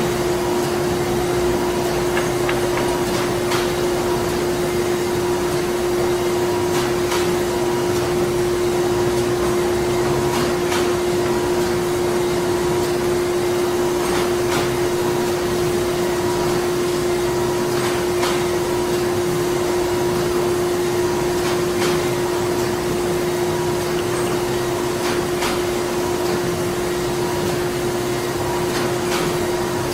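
Printing-factory machinery running steadily: a constant hum with a strong steady mid-pitched tone and a fainter higher one, with faint irregular clicks over it.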